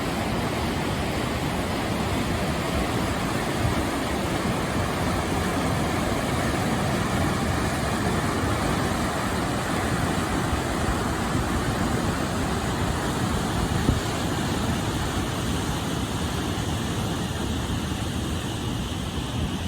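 Hermit Rapids on the Colorado River: whitewater rushing in a constant, even roar.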